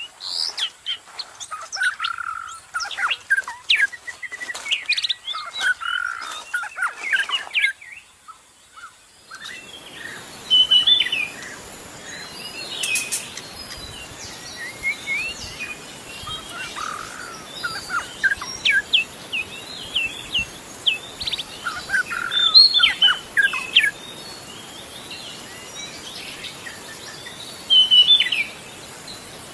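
White-rumped shama (murai batu) singing: a fast, varied run of clear whistles, chirps and quick pitch glides. About nine seconds in, a steady hiss with a high thin drone starts behind the song, which goes on in shorter phrases.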